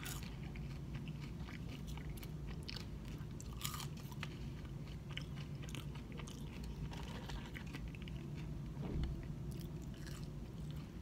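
Close-miked chewing and biting of fried fish and french fries: small crunches and wet mouth clicks scattered throughout, over a steady low hum.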